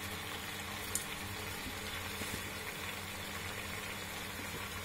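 Leeks sautéing in olive oil in a pressure-cooker pot, a steady soft sizzle with a low steady hum underneath and a light click about a second in.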